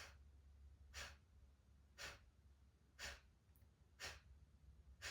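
Short, sharp, forceful exhales puffed out through the nose in Kapalabhati breathwork, evenly paced about one a second, with a faint low hum underneath.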